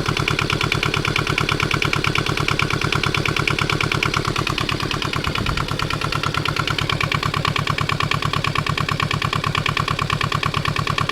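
Small Kubota two-cylinder, water-cooled diesel engine of about 400 cc running steadily, with an even, rapid firing beat.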